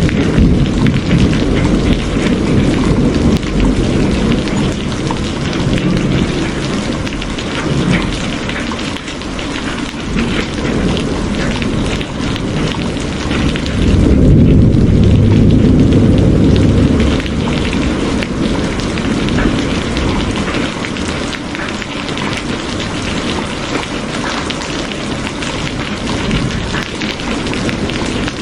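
Steady heavy rain falling, with a deep rumble of thunder underneath that swells loudest about halfway through and then eases off.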